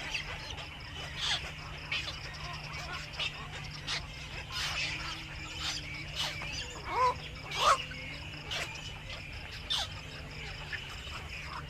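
Birds calling in short, sharp chirps and clicks, with a couple of louder pitched call notes a little past the middle, over a steady insect drone and a low, even hum.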